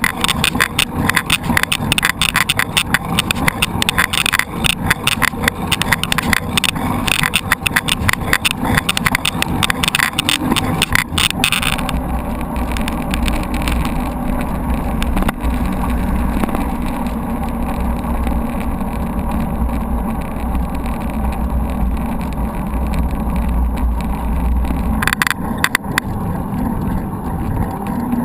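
Mountain bike being ridden, heard close up. Dense rattling and clatter for about the first twelve seconds, then a smoother, steady low rumble, with the rattling coming back near the end.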